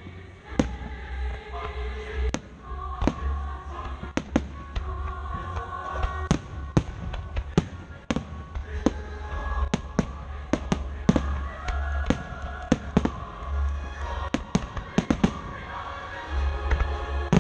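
Aerial firework shells bursting in quick succession during a fireworks finale: a string of sharp bangs that come faster and thicker in the second half, with music playing underneath.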